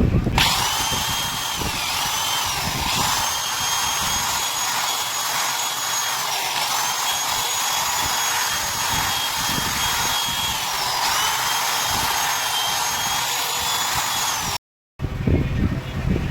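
Small high-speed electric power tool running with a steady whine during valve guide work on a motorcycle cylinder head. Its pitch sags and recovers several times as the tool is loaded. Near the end the sound drops out briefly, and a rougher, rumbling tool noise follows.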